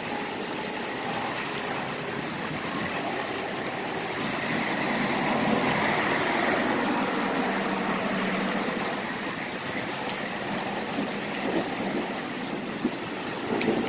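Steady rain falling, with the noise swelling gradually louder through the middle and easing off again.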